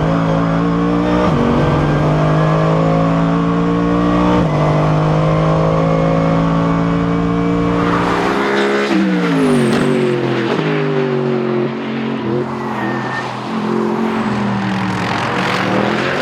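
Mercedes SLS AMG GT3's V8 heard from inside the car at high revs under full throttle. About halfway through, the engine note falls sharply in steps as the car brakes and downshifts, then climbs again near the end as it accelerates out of the corner.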